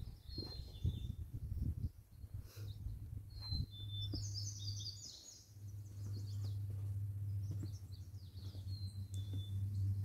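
Songbirds chirping in short, high calls, with a brief trill about four seconds in, over a low, steady rumble.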